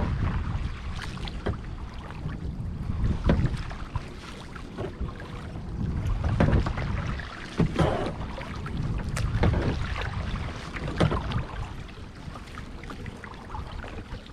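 Kayak paddle strokes dipping and splashing in the water every second or two, with wind buffeting the microphone.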